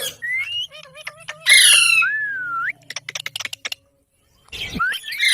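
Pet green parrot calling: short whistled chirps, then a loud harsh squawk with a gliding whistle about a second and a half in. A run of quick clicks follows, then a short break, and more loud squawks near the end.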